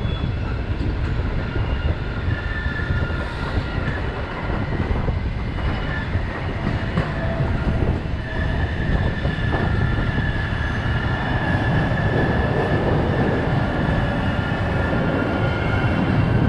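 Ukrainian Railways sleeper train rolling slowly into a station, running with a steady low rumble. Over it comes a high, steady squeal in several tones, which strengthens about halfway through, along with a few short clicks.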